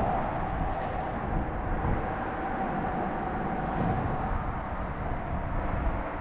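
Steady vehicle noise: a continuous rumble with a constant mid-pitched hum running underneath.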